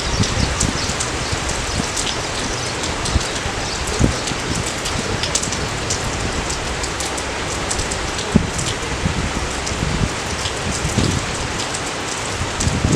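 Steady rain falling, a dense even hiss with scattered louder drops.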